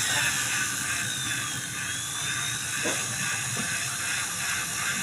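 Honda motorcycle engine running: a steady, hissy mechanical noise with a faint whine and two light knocks around the middle.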